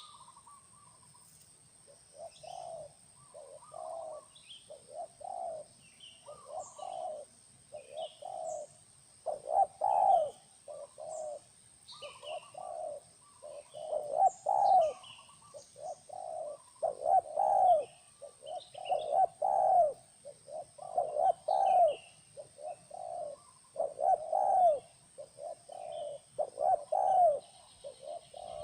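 Spotted doves cooing over and over in short repeated phrases, louder from about nine seconds in, with small birds chirping high and briefly between the coos.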